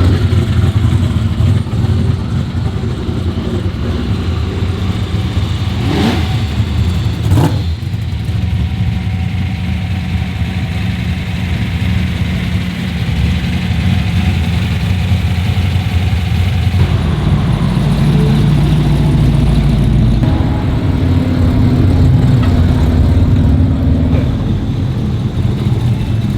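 Car engines running with a low rumble, with two quick rev blips about a third of the way through; the engine sound changes character twice in the second half.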